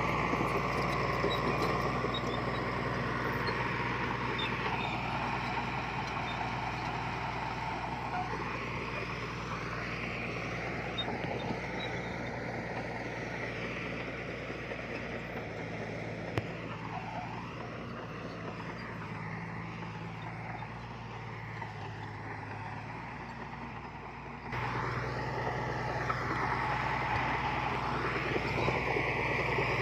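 Diesel engine of heavy earthmoving machinery running steadily under load, with slowly wavering higher machine tones over a low engine hum. About 24 seconds in the sound jumps suddenly louder.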